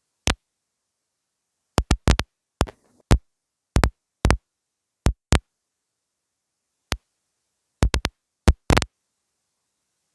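An irregular series of short, sharp percussive hits, some in quick pairs and triples, with dead silence between them.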